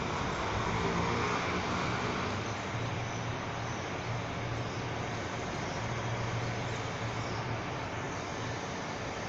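Steady road traffic noise with a low engine hum, a little louder in the first couple of seconds as a vehicle goes by.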